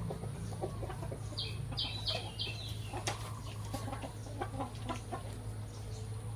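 Chickens clucking: a quick run of four or five short high notes about a second and a half in, with scattered small clicks and a steady low hum underneath.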